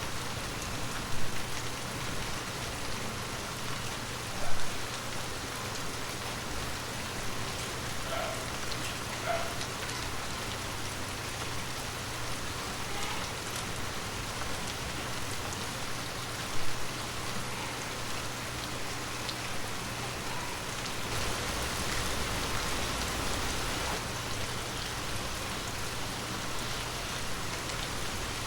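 Steady heavy rain falling, an even hiss, with a few sharp louder drops or drips standing out about a second in, about four and a half seconds in and around sixteen seconds; the downpour swells a little louder for a few seconds past the middle.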